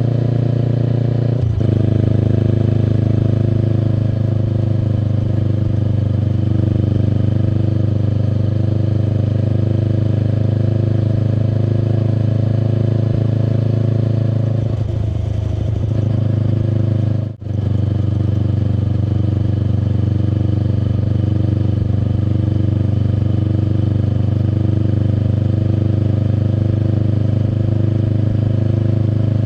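Kawasaki Eliminator SE's 398 cc parallel-twin running steadily under way through a BEAMS Power Header full exhaust. The engine note shifts about a second and a half in, and drops out for a moment around seventeen seconds in.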